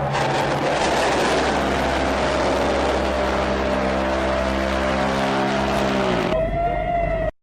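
A loud machine running with a rushing roar and a steady low hum, then winding down in pitch and stopping about six seconds in.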